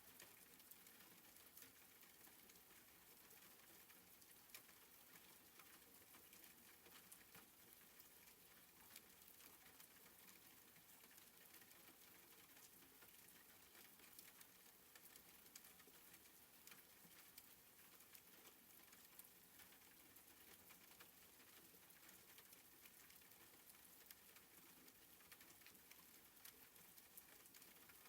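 Faint, soft rain: a steady hiss with many small drop ticks.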